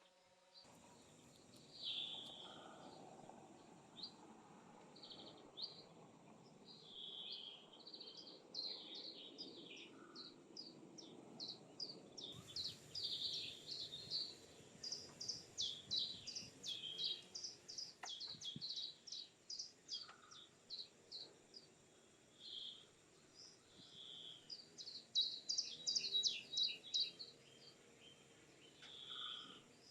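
Forest birds calling: many short chirps and quick trills, busiest in the second half, over a faint steady high insect hum.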